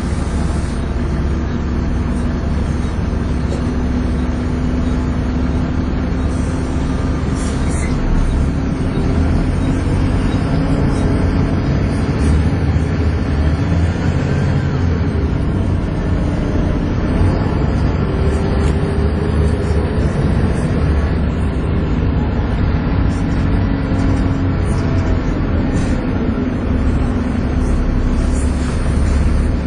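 Volvo B7TL double-decker bus driven hard, its engine and drivetrain running loudly with the vacuum-cleaner-like whine that bus enthusiasts call 'hoovering'. A steady drone with a held whining tone over it.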